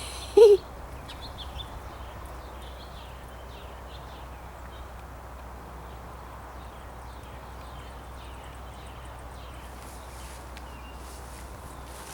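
Small backyard birds chirping faintly and repeatedly, with one short, loud pitched call about half a second in.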